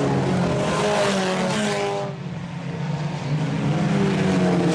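Several IMCA Sport Compact race cars' four-cylinder engines running hard at speed as the field goes by, their pitches rising and falling; the sound dips about two seconds in and builds again.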